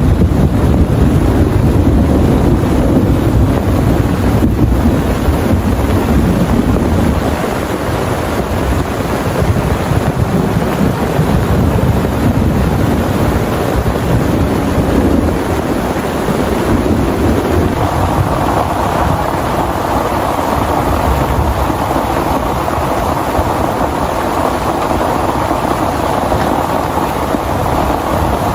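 Heavy rain pouring steadily, with a deep rumble underneath for the first several seconds. About two-thirds of the way through, the rain's hiss turns brighter.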